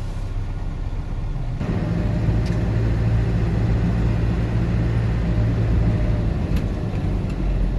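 Road traffic: a steady low rumble of car and bus engines and tyres on the road, which grows louder about one and a half seconds in.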